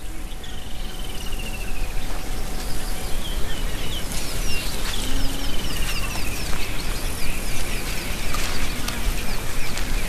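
Birds calling: two long warbling trills that slide down in pitch, one about half a second in and another near the middle, with a run of short quick down-slurred chirps between them, over a steady outdoor hiss.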